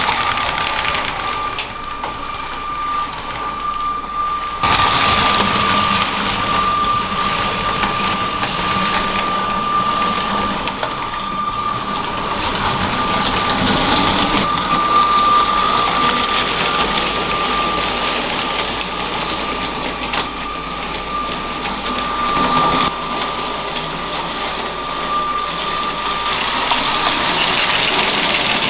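LEGO train running on plastic track: a steady high electric-motor whine over the noise of the wheels and train rolling along. The sound shifts abruptly about five seconds in and again about six seconds before the end.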